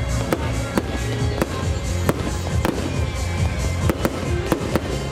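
Aerial firework shells bursting in a display, about eight sharp bangs spaced irregularly, roughly one or two a second, with music playing underneath.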